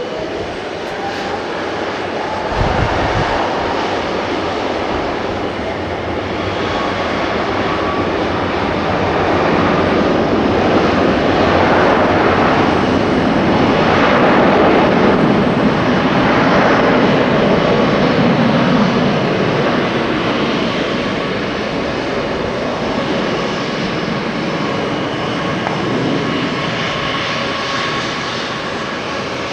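Airliner jet engines at takeoff power, an Airbus A330-300's Rolls-Royce Trent 700 turbofans: a broad rushing roar with a whine that climbs in pitch early on, swelling to its loudest about halfway through, then slowly fading.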